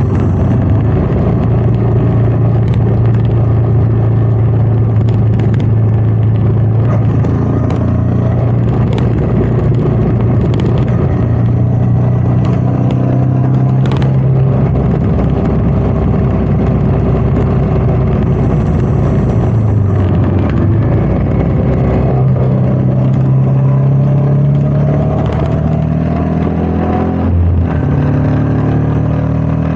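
Royal Enfield Meteor 350's single-cylinder engine running under way, heard from the rider's chest with wind noise on the microphone. The engine note holds steady for most of the time, shifts about two-thirds through, then climbs gradually for several seconds before dropping again near the end.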